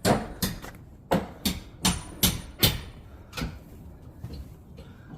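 A quick series of about eight sharp knocks on wood in the first three seconds, then a few fainter ones.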